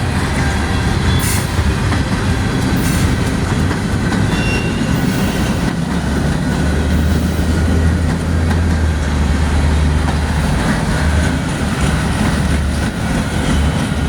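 Freight cars of a manifest train rolling past, a steady loud rumble of wheels on rail.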